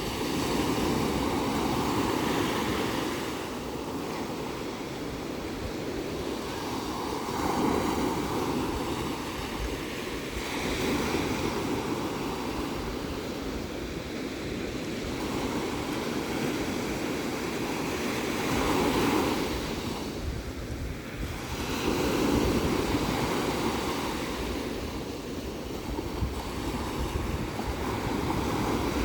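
Ocean surf: waves breaking and washing in continuously, swelling and easing in loudness every few seconds.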